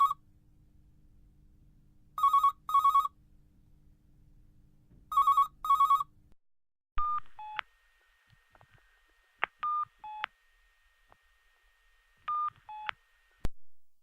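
Telephone ringing in a double-ring pattern, three rings about three seconds apart. Then a few short electronic beeps, each stepping down in pitch, with scattered clicks over a faint steady tone, ending in a sharp click.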